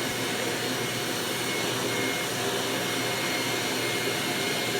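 Eureka "The Boss" Mighty Mite II vacuum cleaner's 7-amp motor running steadily, with a high whine over the rush of air.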